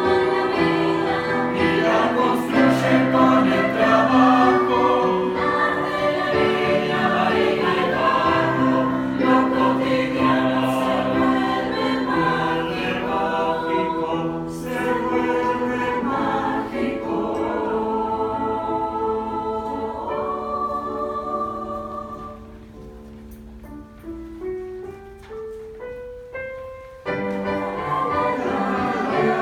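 Youth choir singing in several-part harmony. Past the middle it thins to a quieter passage where one line climbs step by step over a held low note, and the full choir comes back in near the end.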